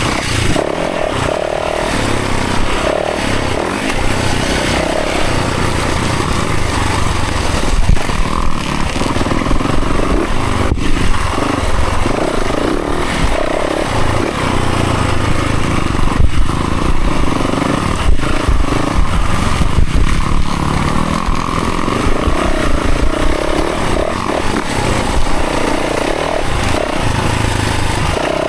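Dirt bike engine revving up and down continuously as it is ridden along a trail.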